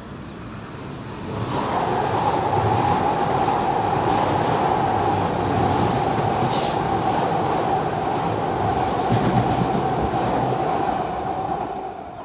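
Red S-Bahn electric multiple unit passing close beneath, a steady rumble over the rails with a steady high whine from about a second and a half in. There is a brief hiss about halfway, and the sound fades slightly near the end.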